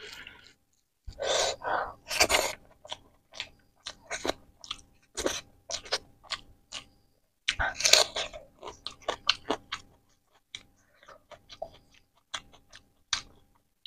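Close-up eating sounds of rice and egg curry taken by hand: wet chewing and mouth clicks in short, irregular bursts, louder a second or two in and again about eight seconds in.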